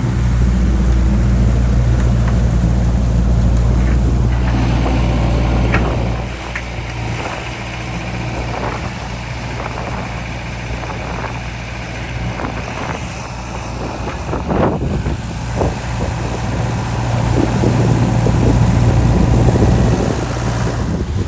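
John Deere 60G mini excavator's diesel engine running under load, loud for the first several seconds, easing off, then working hard again near the end. Irregular knocks and clunks run through the middle stretch.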